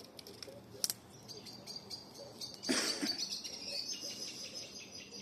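Campfire of damp wood crackling, with a few sharp pops and one loud pop about two and a half seconds in, followed by a steady high hiss.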